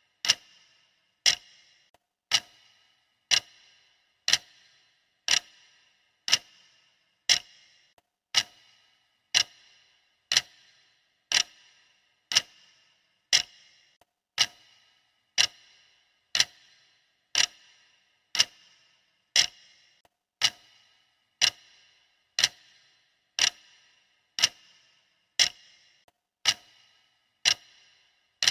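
Clock ticking steadily, one sharp tick about every second, each with a short bright ring.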